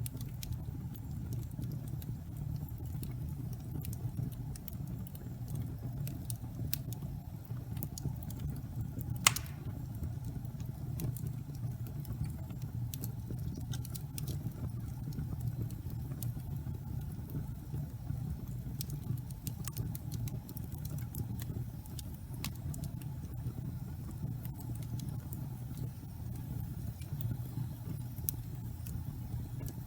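Wood burning in a fireplace: a steady low rumble of flames with scattered crackles and pops, one louder pop about nine seconds in.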